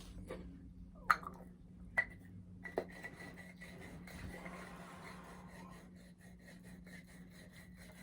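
A few light clicks about one, two and nearly three seconds in, then faint steady rubbing as dry leaf is worked between the fingers.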